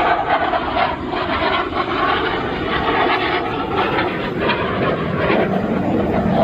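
Fixed-wing aircraft in flight, its engine noise steady and loud, with a faint tone that dips slightly in pitch and rises again.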